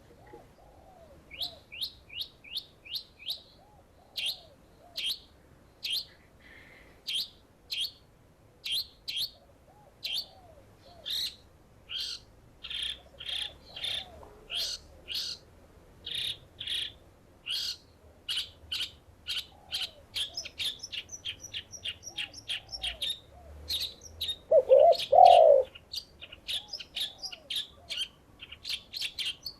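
A bird repeating short, sharp high chirps, two to three a second and quickening near the end, over soft low dove coos; in the second half one coo comes much louder.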